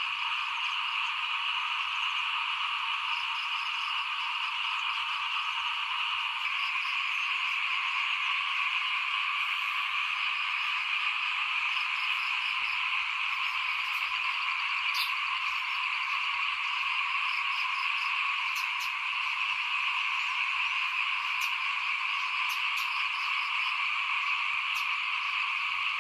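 Chorus of many small paddy frogs (khiat) calling together in a dense, unbroken wall of sound at a steady level.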